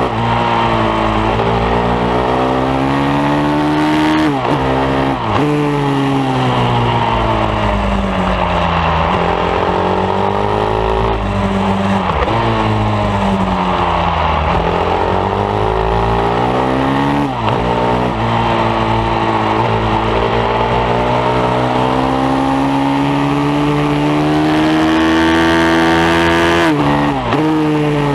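Bucci F15R pit bike's single-cylinder engine revving hard and easing off around a track. The pitch climbs and falls continuously, with about five sudden drops where the rider shifts or closes the throttle, and a long loud climb near the end.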